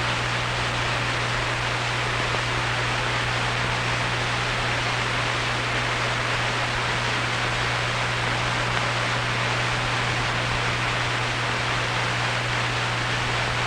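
Steady hiss with a constant low hum, unchanging throughout: the background noise of an old 1940s film soundtrack between lines of narration.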